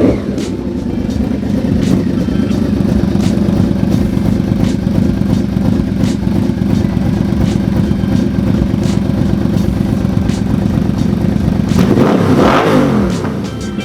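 Yamaha Vmax's V4 engine idling steadily as it warms up. About twelve seconds in it is briefly revved, the pitch rising and then falling back to idle.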